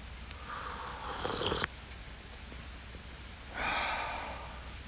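Two breathy rushes of air about two and a half seconds apart: a person sipping hot coffee and breathing out after the sip.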